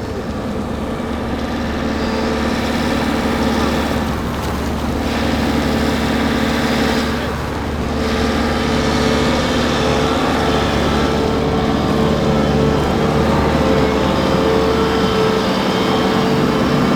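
An engine running steadily at a constant pitch with a low hum, like a vehicle idling close by.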